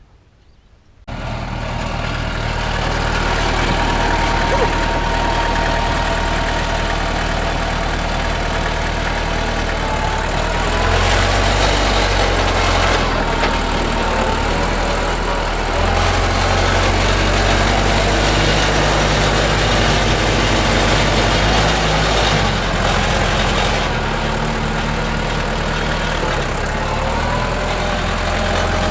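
NorTrac 35XT compact tractor's diesel engine running steadily, with a whine above the engine note. The sound cuts in suddenly about a second in. The engine note shifts a few times as the work load changes.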